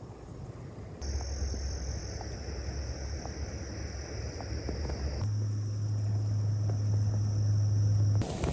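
Insects trilling steadily at a high, even pitch over a low hum. The sound changes abruptly about a second in, again about five seconds in, and just before the end, with the hum getting louder and higher in the middle stretch.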